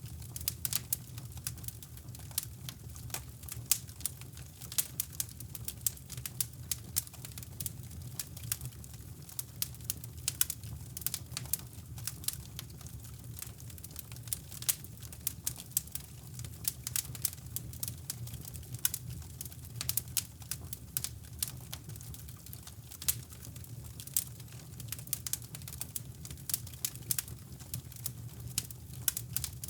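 Wood fire in a fireplace crackling, with irregular sharp pops and snaps over a steady, deep rushing brown noise.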